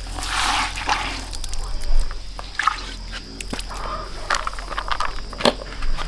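Water splashing and trickling in irregular spurts, with a few light knocks.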